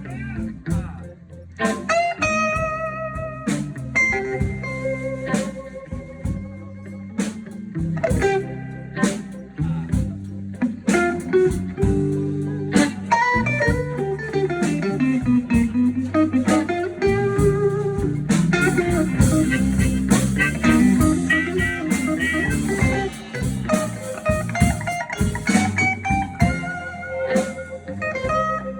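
Blues instrumental break with no singing: guitar playing over a steady backing, with held and bending notes.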